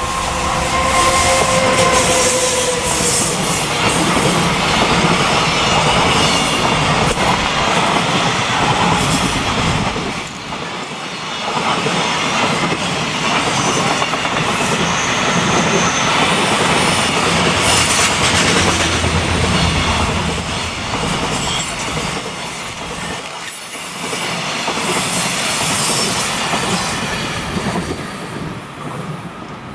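JR Freight EF210 electric locomotive hauling a long container freight train past: a steady tone in the first few seconds as the locomotive goes by, then the continuous rumble and clatter of the container wagons' wheels on the rails, with thin high wheel squeals at times on the curve, dying away near the end as the last wagon passes.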